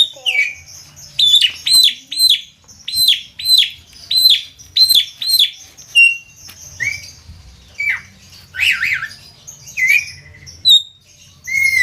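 Javan myna calling repeatedly: a quick run of about seven high, arched whistled notes in the first half, then a string of varied downward-sliding calls.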